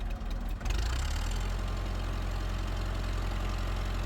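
An engine that kicks in or speeds up about two-thirds of a second in, then runs steadily with a strong low hum.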